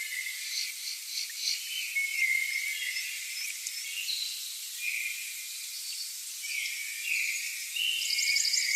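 Nature soundscape of insects and birds: a dense chorus of high chirps, trills and short whistled notes, busiest near the end.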